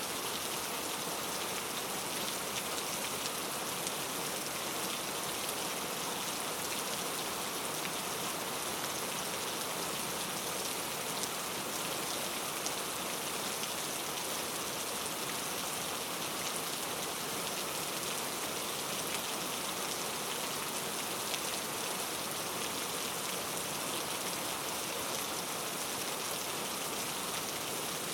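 Steady rain falling in a rainforest, an even hiss of many fine drops pattering on leaves and other surfaces, with no pauses or single loud events.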